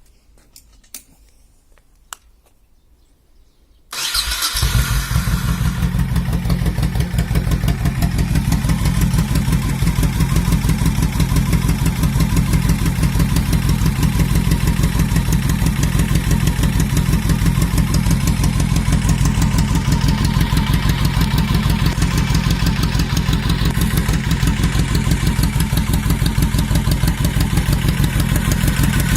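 Honda VT1100 Sabre's V-twin engine on a cold start: a few faint clicks, then about four seconds in it fires up suddenly and settles into a steady, loud, rhythmic idle.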